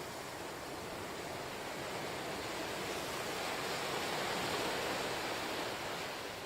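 Ocean surf washing ashore: a steady rush that swells about four seconds in and eases off near the end.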